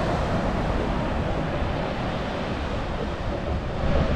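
Ocean surf and wind buffeting the microphone, a steady rushing noise heaviest in the low end.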